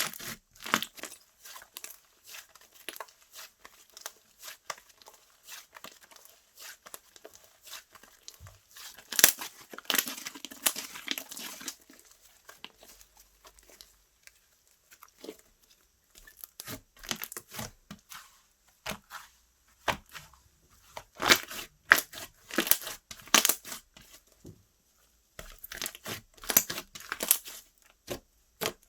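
Slime being squished, stretched and pulled apart by hand, making runs of sticky crackling pops and tearing sounds that come in louder clusters.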